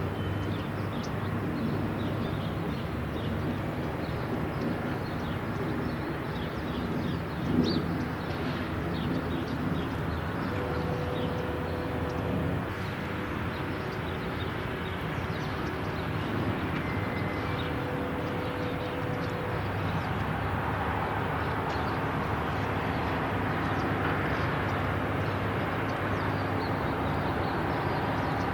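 Outdoor construction-site and traffic background: truck and vehicle engines running and passing, with hums that come and go and a short knock about seven and a half seconds in.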